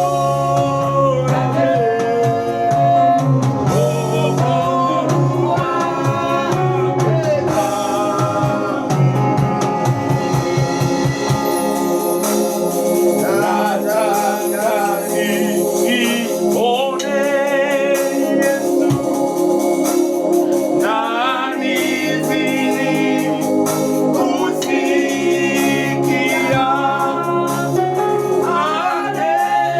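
Gospel song with singing over organ-like keyboard accompaniment; the bass drops out about twelve seconds in and comes back near twenty-one seconds.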